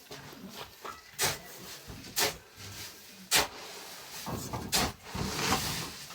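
A series of sharp knocks and clacks, four of them about a second apart, with a short rustling hiss near the end.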